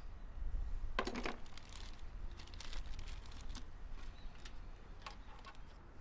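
A scattered series of light clicks, taps and crinkling from hands handling wiring and small parts, with a dense burst of crackling about a second in. A steady low hum runs beneath.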